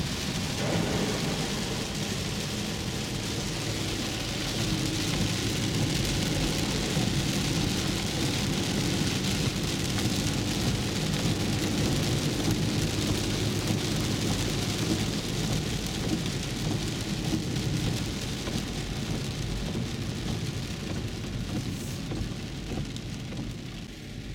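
Heavy rain drumming on a 2011 Infiniti EX35, heard from inside the cabin over the rumble of its 19-inch low-profile tyres on the wet road. The noise eases off somewhat near the end.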